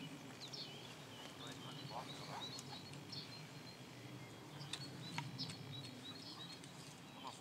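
Small birds chirping again and again over a steady low outdoor rumble, with a couple of sharp clicks about five seconds in.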